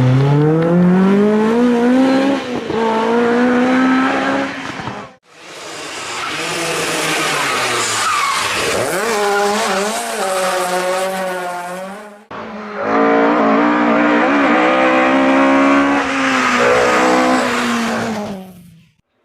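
Historic rally cars at full effort on a stage, engines revving hard, their pitch climbing and dropping through gear changes and corners. Three separate passes, each cut off abruptly.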